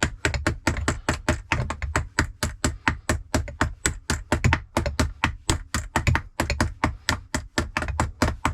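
Small hammer tapping a battery terminal clamp down onto a leisure battery post: quick, even light strikes, about five a second.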